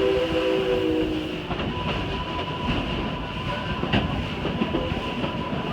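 A steam locomotive's whistle sounds a chord of several steady tones and cuts off about a second in. It gives way to the steady clatter of the train's cars rolling along the track, with one sharp click near four seconds.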